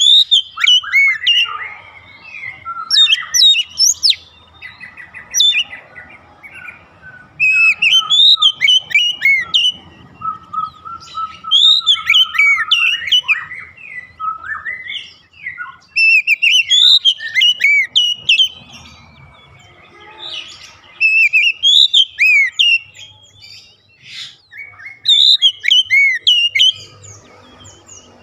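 Oriental magpie-robin (kacer) singing: loud phrases of varied, quickly rising and falling whistled notes, in bursts of a second or two separated by short pauses.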